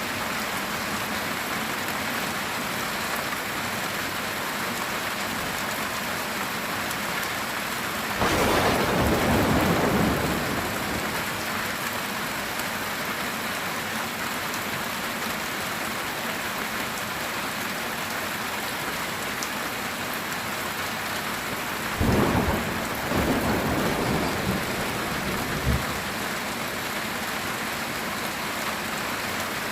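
Steady heavy rain on a metal tin roof. Thunder rumbles twice: about eight seconds in for a couple of seconds, and again near the end with a sharp crack that rolls on for a few seconds.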